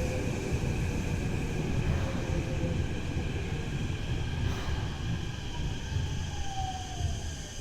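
Tokyo Metro 03 series electric train heard from on board: a steady low running rumble with a traction-motor whine gliding slowly down in pitch as the train slows.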